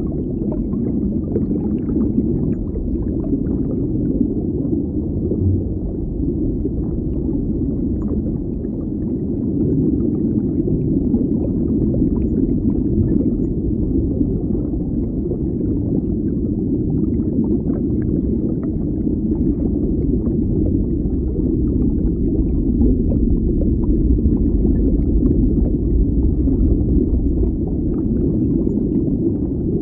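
Underwater ambience: a steady, deep, muffled rumble of water, with faint scattered clicks and crackles.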